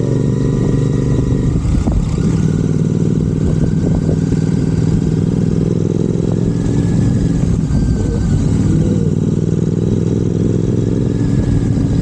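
Royal Enfield Continental GT 650 parallel-twin engine running through Red Rooster aftermarket exhausts at a steady cruise, with a low, even exhaust note and only slight changes in pitch.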